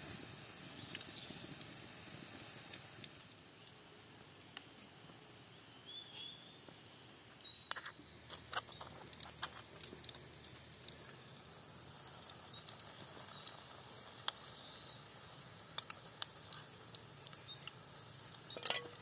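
Herb-and-egg frittata (kookoo sabzi) batter frying gently in oil in a wide metal pan over a wood fire, with a metal spoon clinking and scraping against the mixing bowl and pan; the sharpest clink comes near the end. A few short high chirps sound in between.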